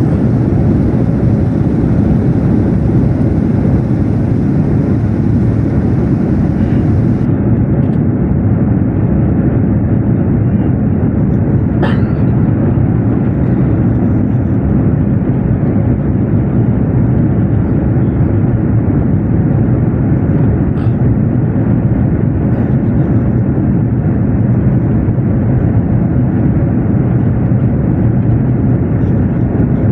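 Steady engine and airflow noise of an Airbus A320 in climb-out after takeoff, heard from inside the passenger cabin, with one faint click about twelve seconds in.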